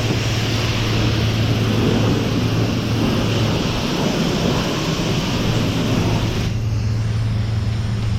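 Self-serve car wash pressure wand spraying water in a steady hiss over a steady low pump hum; the spray cuts off about six and a half seconds in, leaving the hum.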